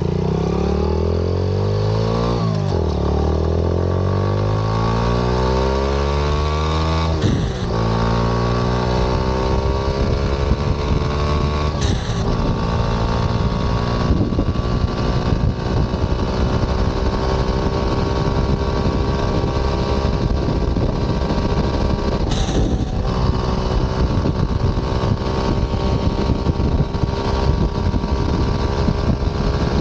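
Turbocharged Monkey-clone minibike's single-cylinder engine being ridden hard. Its pitch climbs and drops at gear shifts over the first several seconds, then holds steadier. Three times, a short hiss from the BLITZ blow-off valve venting boost cuts across it as the throttle closes.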